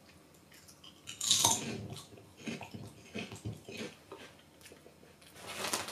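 A crunchy chip bitten and chewed right up against a handheld microphone. There is a loud crunch about a second in, softer crackly chewing after it, and another burst of crunching near the end.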